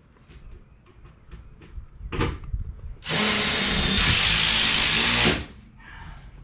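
A power tool gives a brief burst about two seconds in, then runs steadily for about two and a half seconds and stops abruptly.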